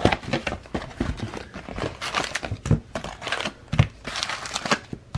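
Crinkling and tearing of packaging as a sealed retail box of baseball card packs is opened and its wrapped packs handled: a run of irregular crackles and rustles with a few soft knocks.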